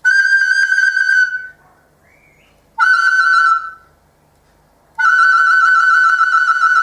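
Recorder playing three long held notes, all at the same high pitch and each lasting one to two seconds, with short quiet gaps between them.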